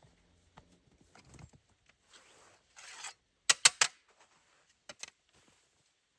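Handling noises: short rustles and a swish, then three sharp clicks in quick succession about three and a half seconds in, and two more clicks about five seconds in.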